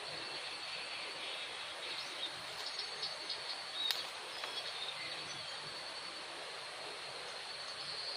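Steady insect chorus of crickets in the forest: a constant high-pitched trill over a quiet hiss. A few faint ticks come about two to five seconds in, with one sharper click about four seconds in.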